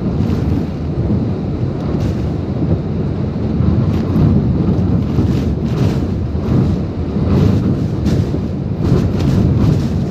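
Typhoon-strength wind gusting, with heavy wind rumble on the microphone that swells and eases in surges.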